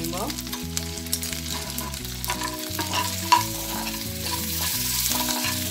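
Prawn heads, garlic and green chillies sizzling in hot mustard oil in a frying pan while a metal spoon stirs and scrapes through them, with a sharp clink of the spoon on the pan a little after three seconds in.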